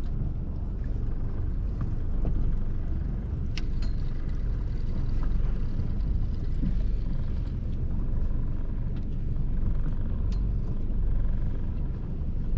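Steady low rumble aboard a boat, with a few faint clicks.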